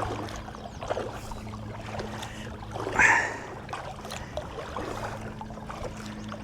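Kayak paddle strokes in the water with dripping, and one louder splash about three seconds in, over a low steady hum.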